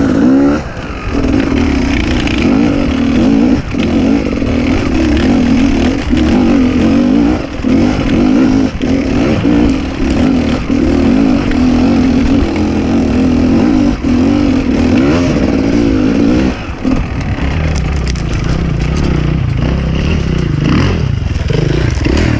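Enduro dirt bike engine running under load, its revs wavering up and down with the throttle, with scattered knocks and clatter. About 17 seconds in, the engine drops to a lower, steadier note.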